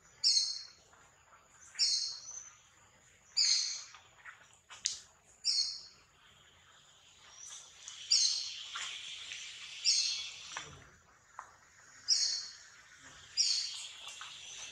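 A bird calling over and over: short, high-pitched calls repeated about every two seconds, eight in all.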